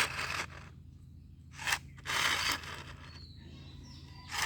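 Short scraping and rustling handling noises of a toy vehicle being picked up and moved: a noisy burst at the start, a sharp click, another longer burst about two seconds in, and a click near the end.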